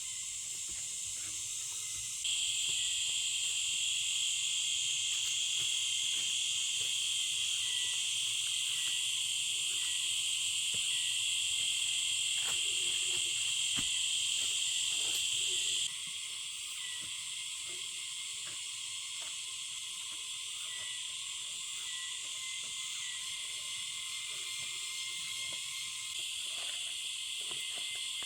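Steady high-pitched insect chorus, stepping louder about two seconds in and dropping back about sixteen seconds in, with light scattered clicks and taps underneath.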